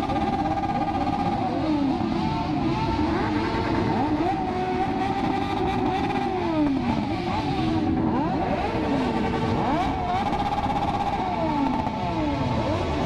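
Several four-cylinder motorcycle engines running at once. Their notes rise and fall and overlap as the bikes rev and ride by.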